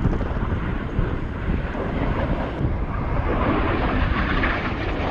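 Red Arrows BAE Hawk T1 jets flying by, the steady roar of their Rolls-Royce Adour turbofans taking on a hissier edge in the last couple of seconds.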